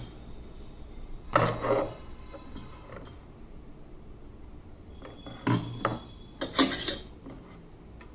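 Several short bursts of rustling and clattering as a delivered parcel and the device inside it are handled. The loudest burst comes near the end.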